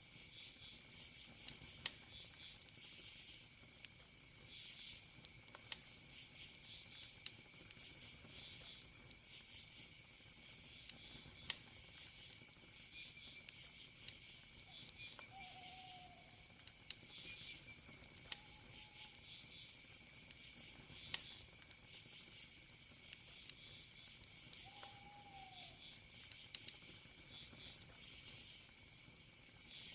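Wood campfire crackling with scattered sharp pops, over a steady chorus of crickets and other insects trilling. A few short, low calls sound around the middle and near the end.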